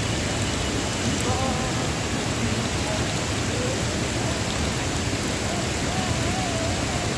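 Steady rush of a mountain waterfall: a dense, even roar of falling water with no breaks.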